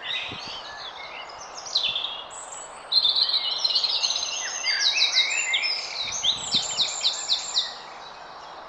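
Garden songbirds singing and calling, several voices overlapping; a louder song of quick repeated, trilled notes starts about three seconds in and fades near the end, over a faint steady hiss.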